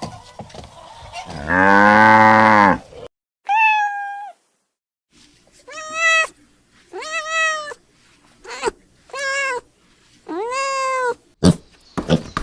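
A cow mooing once in a long low call. Then a cat meowing about six times, each meow rising and falling, with abrupt cuts between clips. A run of short, sharp sounds starts near the end.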